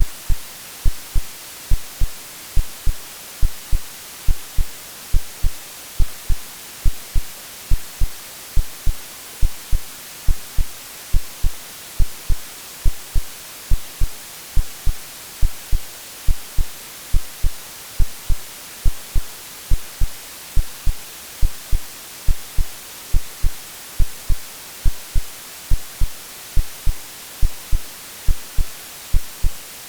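AI-generated heartbeat: a steady double thump (lub-dub) repeating a little faster than once a second, over a constant white-noise hiss.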